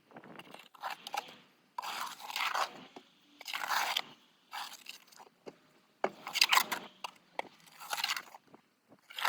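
Snow shovel scraping and crunching through snow in repeated strokes, roughly one a second with short pauses between them.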